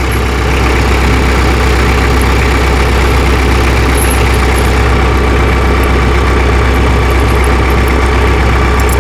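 Tractor engine idling steadily, a constant low hum that does not change.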